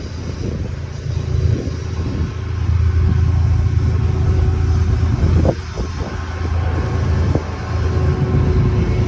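A freight train rolling past with a loud, steady low rumble and a faint steady tone. It dips briefly after about five and a half seconds, and a couple of sharp knocks come around the middle.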